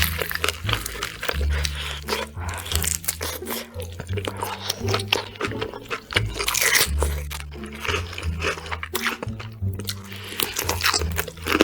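Loud, crisp crunching bites and chewing of crunchy food, close to the microphone, over background music with a steady bass line.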